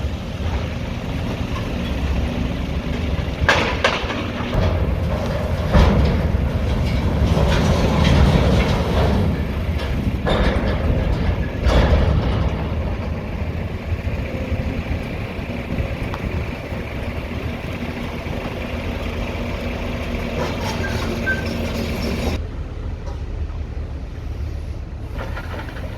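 Demolition excavator's engine running steadily, with a few sharp crashes of breaking rubble in the first half as it tears into the building.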